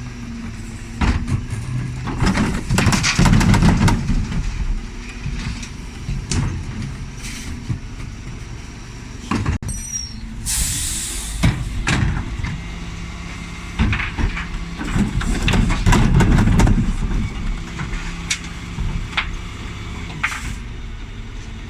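Dennis Elite 6 bin lorry running, with repeated clanks and knocks and a sharp hiss of air about ten seconds in.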